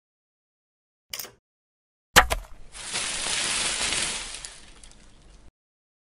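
A watermelon splitting open: a brief soft rustle, then a sharp crack about two seconds in, followed by a long noisy rush that swells and fades out.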